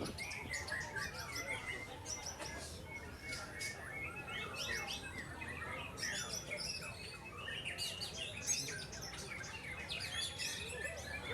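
Several caged white-rumped shamas (murai batu) singing at once in a songbird contest: a dense, unbroken stream of rapid whistles, trills and chirps overlapping one another.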